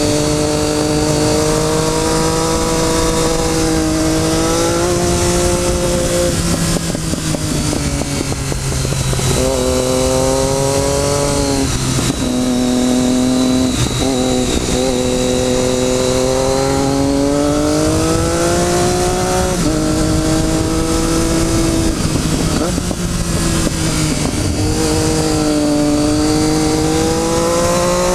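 Motorcycle engine pulling through the gears while riding: its pitch climbs steadily, then drops sharply at each shift, about seven times, over a steady rushing noise.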